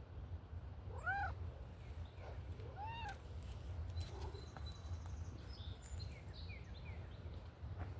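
Domestic cat meowing twice, two short meows rising then falling in pitch about two seconds apart, over a steady low rumble. Faint short high chirps follow later.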